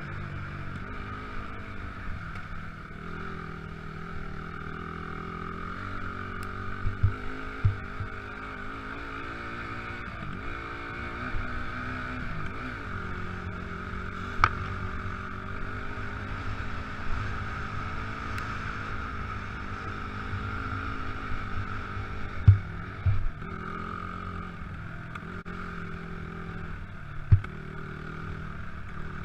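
Motocross motorcycle engine running, its pitch rising and falling with the throttle, with a few sharp low thumps about a third of the way in, near the three-quarter mark and near the end.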